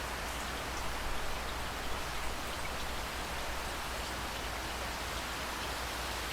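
Steady rain falling: an even hiss with scattered faint drop ticks, over a constant low rumble.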